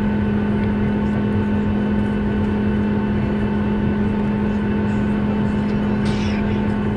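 Steady cabin drone of a Boeing 737 airliner: jet engine noise with a constant low hum and a few fainter steady tones, unchanging throughout, with a brief hiss about six seconds in.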